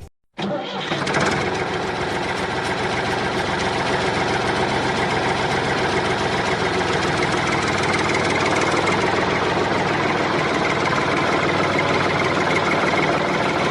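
Small motor running steadily. It starts about half a second in and keeps up a continuous buzzing drone.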